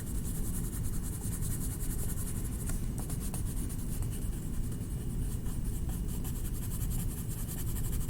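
Rapid back-and-forth colouring strokes scratching on paper as a wing is filled in, over a steady low hum.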